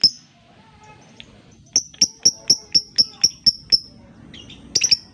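Lovebird giving a rapid run of short, sharp high-pitched chip calls, the 'ngetik' ticking call, about four a second. One comes at the start, a run of about nine follows from about two seconds in, and a quick double burst comes near the end, with faint softer twittering in the gaps.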